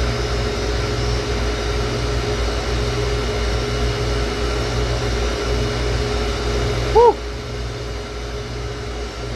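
Walk-in freezer condensing unit running: steady hum of the compressor and condenser fan, still running because the system has not gone into defrost. About seven seconds in, a short rising-and-falling tone sounds once, and the hum then gets a little quieter.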